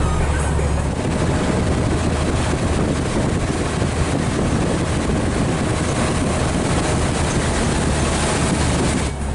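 Hino 500 FM320TI truck's diesel engine and road noise heard from inside the cab while driving loaded in fifth gear, a steady drone with a brief dip near the end.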